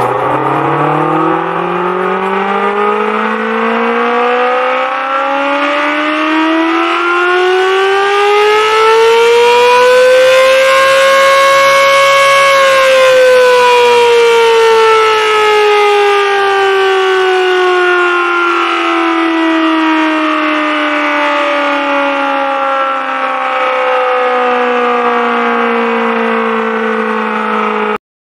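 Civil defense siren sounding one long wail: its pitch rises steadily for about twelve seconds, then falls slowly, and it cuts off suddenly near the end.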